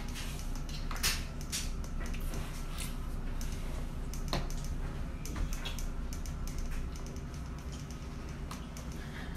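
A toddler chewing slowly while half asleep: soft, irregular wet clicks and lip smacks close to the microphone, over a steady low hum.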